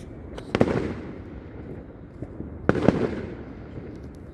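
Fireworks exploding: two bursts of sharp bangs, one about half a second in and another near three seconds in, each trailing off with crackle and a fading rumble.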